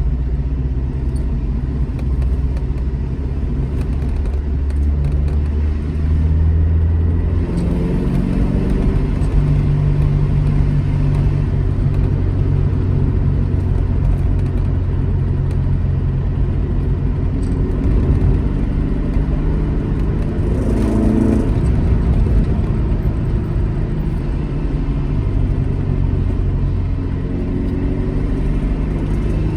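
Classic Alfa Romeo GT Junior's twin-cam four-cylinder engine pulling the car along the road. Its pitch climbs and drops with throttle and gear changes, with a clear rise about seven seconds in and another brief climb and fall about two-thirds of the way through.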